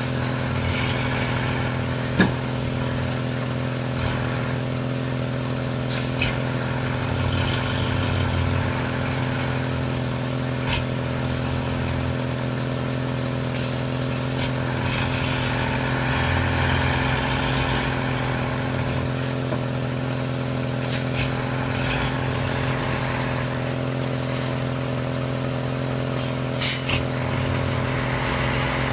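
Heavy vehicle engine running steadily at a constant speed, with a few sharp clanks now and then.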